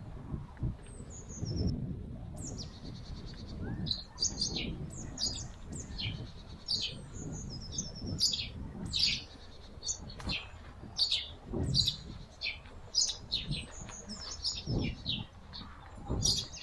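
Songbirds chirping and calling, many short high notes in quick succession from several birds, over an uneven low rumble with occasional dull thumps.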